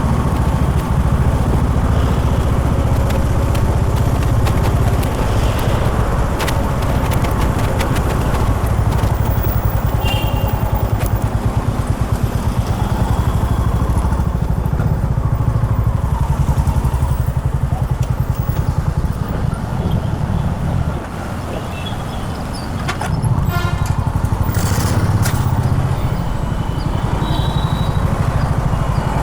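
Honda H'ness CB350's air-cooled single-cylinder engine running under way, its exhaust beating evenly. A little past two-thirds of the way through it drops to a quieter note for about two seconds, then pulls again.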